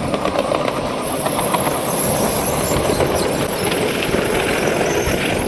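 Ride-on miniature train rolling along its track, its wheels rumbling and clattering steadily on the rails.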